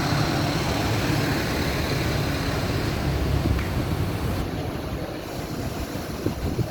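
Scania city bus diesel engine idling steadily, with a low hum. It turns quieter and duller about four and a half seconds in.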